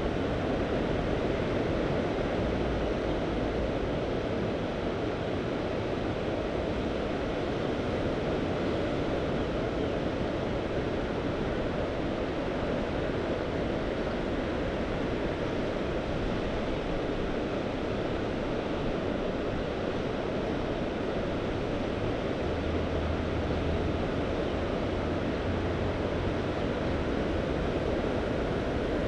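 Sea waves washing steadily onto the shore, an even hiss with little rise and fall, with some wind rumbling on the microphone.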